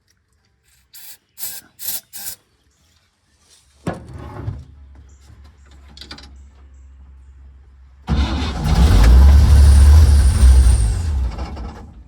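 Four short sharp sounds, then the 1950 Chevrolet 4400's Stovebolt inline-six turns over weakly from about four seconds in and fires about eight seconds in, running loudly for some three seconds before fading: it is running only on ether sprayed into the carburetor.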